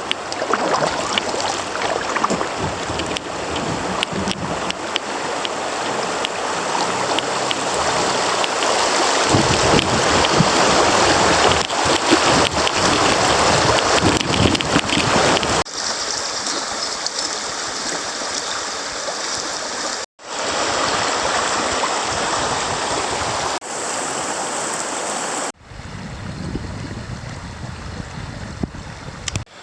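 Creek water rushing and splashing over shallow riffles, a loud, even wash of water noise that changes abruptly several times.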